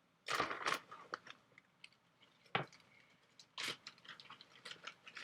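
Kitchen containers being handled while cacao powder is got out: a few sharp clicks and knocks with some rustling in between.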